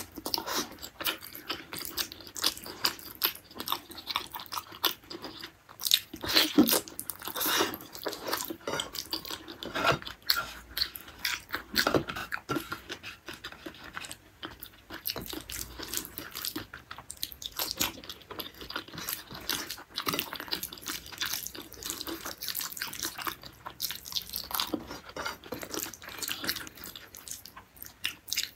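Close-miked eating sounds of beef-tendon curry with rice eaten by hand: wet chewing and mouth smacks, with fingers working the rice and gravy. Irregular quick clicks and smacks run throughout, loudest about six to seven seconds in and again around twelve seconds.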